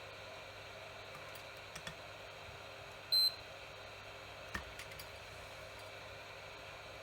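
A multimeter's continuity buzzer gives one short, high beep about three seconds in, as the test probes are touched to the drill's circuit board. A few light clicks of the probes and handling come before and after it.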